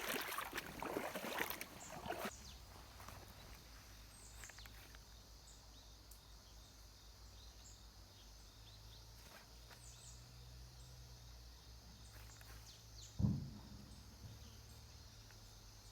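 Water splashing and sloshing for about two seconds, then quiet outdoor ambience: a low steady hum with faint bird chirps, and one dull thump near the end.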